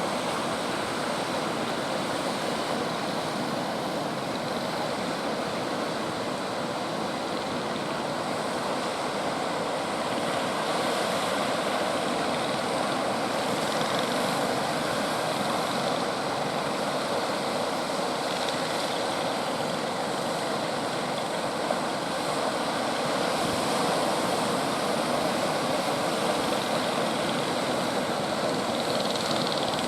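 Ocean surf breaking, a steady, even rush of waves with no single crash standing out.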